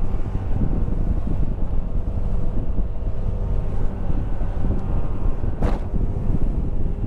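Mercury 100 hp two-stroke outboard running steadily with the boat underway, under heavy wind buffeting on the microphone. A single brief knock about five and a half seconds in.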